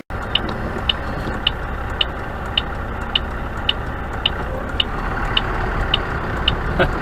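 Semi-truck engine running steadily, heard from inside the cab, with the turn-signal indicator clicking evenly just under twice a second.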